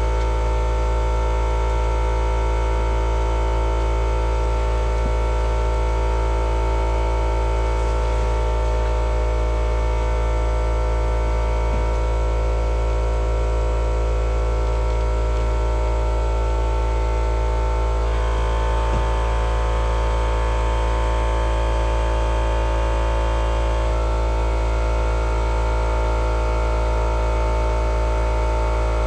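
A loud, steady low hum with several steady tones over it; some of the tones shift about 18 seconds in and again about 24 seconds in.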